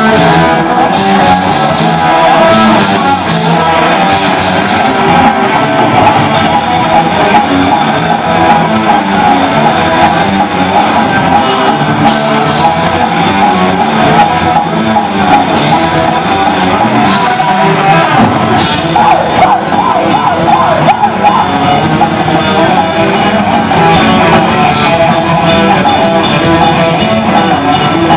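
Heavy/speed metal band playing at full volume: electric guitars, bass and drum kit in one dense, unbroken wall of sound.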